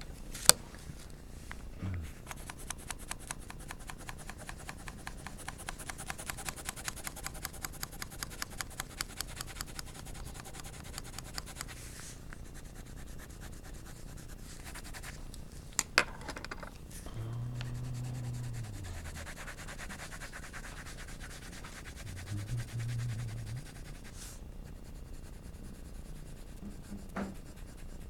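Graphite pencil shading on paper: fast back-and-forth strokes, many a second, for about ten seconds, then softer, slower rubbing. Two sharp taps, one just after the start and one about sixteen seconds in.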